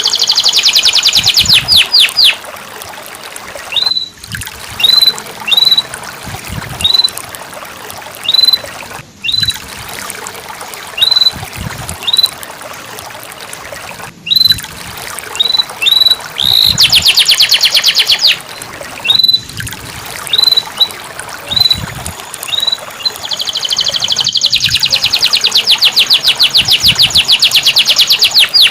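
Domestic canary singing: single short upswept chirps repeated at one pitch, broken by fast rattling trills near the start and about two thirds through, and a long rapid trill over the last five seconds. The song briefly drops out about every five seconds.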